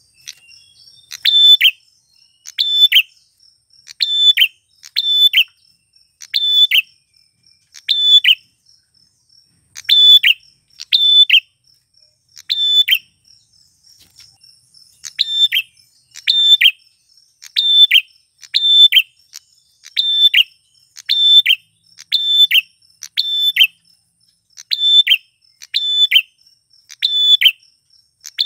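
Male prenjak klawu, a prinia, calling: loud short calls with a falling end, repeated about once a second, with a brief pause around the middle. A faint steady high trill runs behind.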